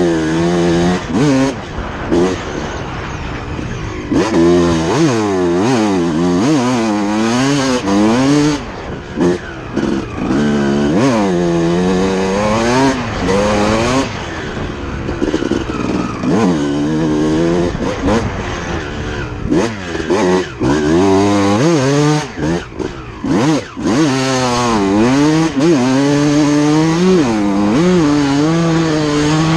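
2006 Suzuki RM250 two-stroke dirt bike engine being ridden hard, revving up and falling back again and again as it is throttled and shifted, with brief throttle chops a few times.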